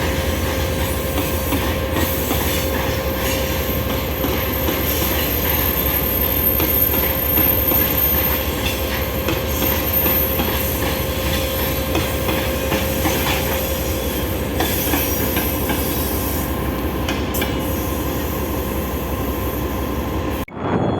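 A train moving past on the rails: a steady rumble of wheels and cars with a held wheel squeal over it. It cuts off suddenly near the end.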